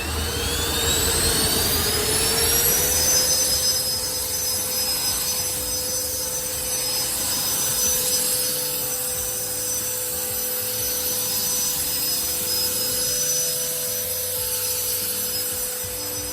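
Cordless handheld ducted-fan car-drying blower spinning up on low mode, its whine rising over the first three seconds, then running at a steady high whine.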